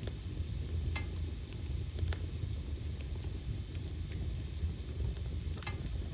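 Wood logs burning in a fireplace: a steady low rumble from the fire with occasional sharp crackles and pops, the clearest about one, two and five and a half seconds in.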